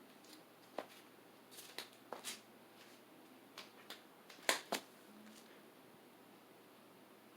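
A faint steady whir from a Harbor Breeze Armitage ceiling fan running on low in reverse, with a scattered series of light clicks and taps. The loudest clicks are a close pair about halfway through.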